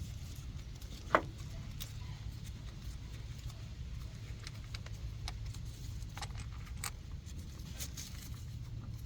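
Light metallic clinks and taps of tools and engine parts being handled during an engine teardown, with one sharper ringing clink about a second in, over a steady low hum.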